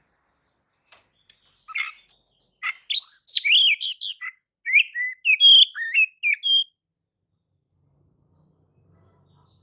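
Oriental magpie-robin (kacer) singing a quick, varied phrase of clear whistles and chirps. The phrase begins about a second in and stops about two-thirds of the way through.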